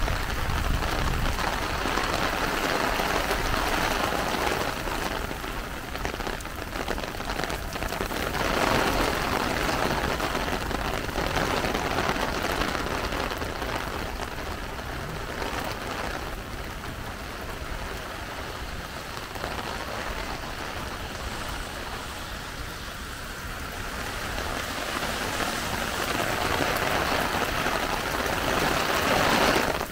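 Heavy rain falling steadily in a dense hiss, swelling louder about nine seconds in and again near the end.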